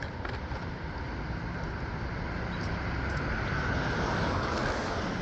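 City street traffic noise, with a vehicle passing that is loudest about four seconds in.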